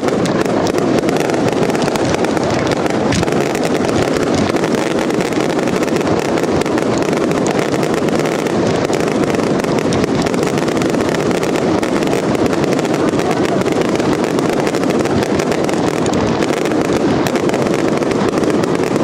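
Many consumer F2 firework batteries (cakes) firing together: a dense, unbroken barrage of launches and bursts with crackling, running on without any pause.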